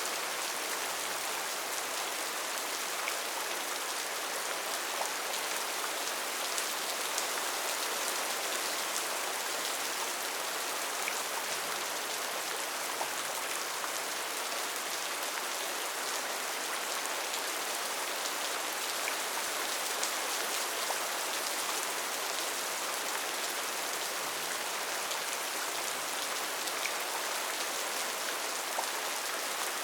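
Steady heavy rain falling on rainforest foliage, an even hiss with scattered individual drops.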